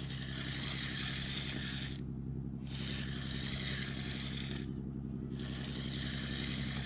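Fishing reel being wound in to bring up a hooked codling: a whirr in stretches of about two seconds, with short pauses between, over a steady low hum.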